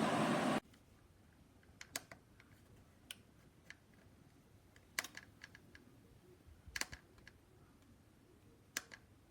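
A steady rushing noise cuts off abruptly less than a second in, followed by scattered light clicks and taps, singly and in small clusters, over a quiet background.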